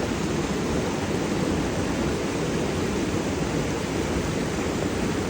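Creek water rushing steadily over rocks, an even, unbroken noise.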